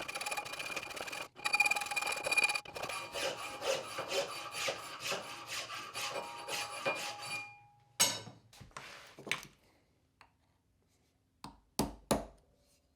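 A hand file rasping back and forth across the mouth of a steel plane sole, widening a mouth cut too narrow. It makes quick repeated strokes, about three a second, for some seven seconds, then stops. A few light clicks and two or three sharp knocks follow near the end.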